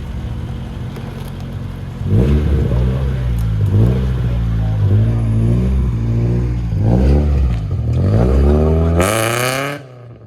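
A car engine idling, then revved repeatedly from about two seconds in, each rev rising and falling in pitch. A last, longer rev climbs higher with a hissing edge, and the sound drops off sharply near the end.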